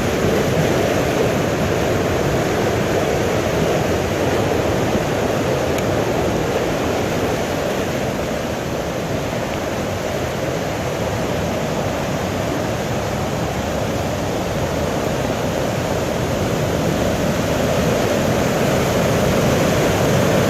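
A river in flood rushing steadily, swollen by a heavy storm.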